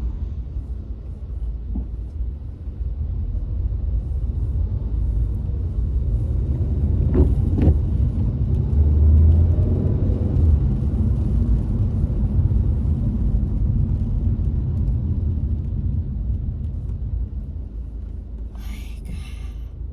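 Car interior road noise: a steady low rumble of tyres and engine that swells to its loudest about halfway through, then eases off toward the end, with a brief hiss near the end.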